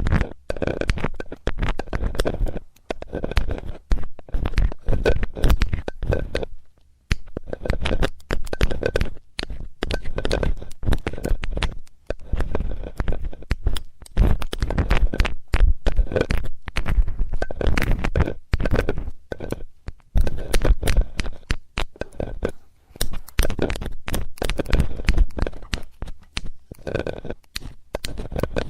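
Metal ear-cleaning tool scraping and tapping against a microphone's ear, close up: dense crackling scrapes in quick strokes, with a short pause about seven seconds in.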